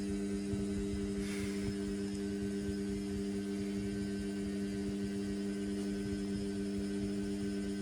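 Indesit washing machine running mid-wash with a steady, even electrical hum, over a low rumble of sloshing water and suds.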